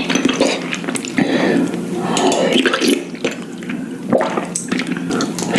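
Close-miked wet eating sounds from spicy ramen noodle soup: irregular slurping, squishing and chewing with small wet clicks.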